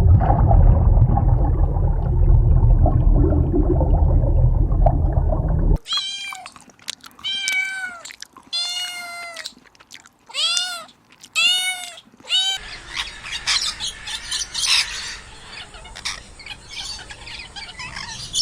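Cat meowing about six times in a row, each meow rising and then falling in pitch. Before the meows there is a loud, deep, noisy sound, and after them a dense high-pitched chattering noise.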